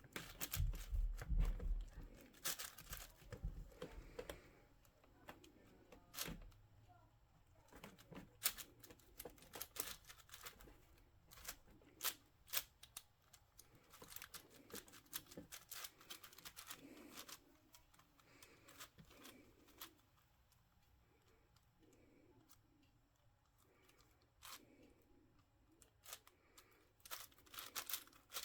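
Plastic twisty puzzle being turned by hand in quick bursts: irregular clicking and clacking of the layers, with a heavier bump from handling in the first two seconds.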